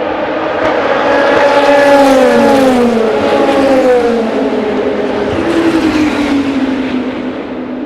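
Endurance race cars passing trackside at speed. The loudest engine note slides down in pitch as it goes by, peaking about two seconds in, and a second car's lower note falls again in the second half.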